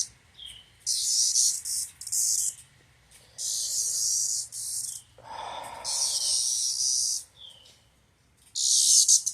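Male cicadas buzzing in about six short, harsh bursts, each under a second and a half, the squawk they give when held or disturbed. A lower rustling noise comes in about five seconds in.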